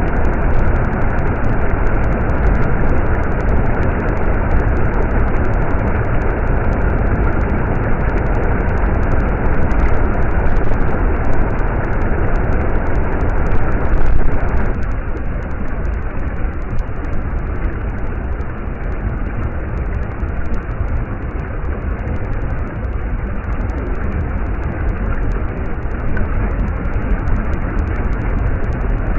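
Stream water running and rushing steadily, a continuous noise with a deep rumble; about halfway through it drops and becomes somewhat quieter and duller.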